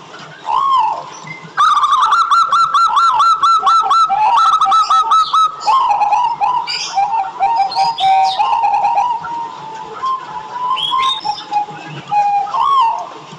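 Zebra doves (local Javanese perkutut) cooing. Single arched coos at the start and end frame a busy stretch from about 1.5 s to 6 s, where rapid repeated notes from several birds overlap.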